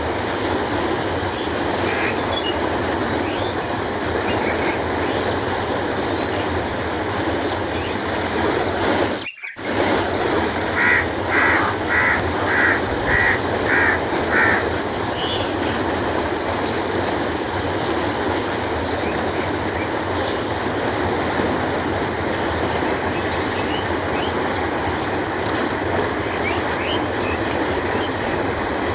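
Canal water flowing and rushing steadily. About nine seconds in the sound cuts out for a split second. Soon after, a bird calls about eight times in quick succession, and a few faint chirps come and go.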